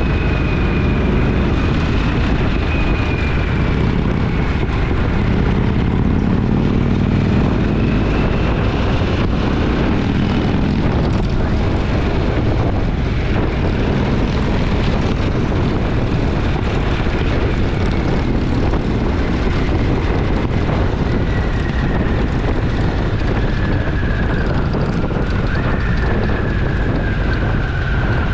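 Twin-cylinder motorcycle engine running under way, mixed with steady wind rush on the helmet-camera microphone; the engine note rises and falls gently as the throttle changes.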